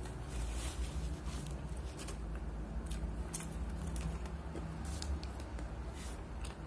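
Close-miked chewing of food, with scattered sharp wet mouth clicks over a steady low hum.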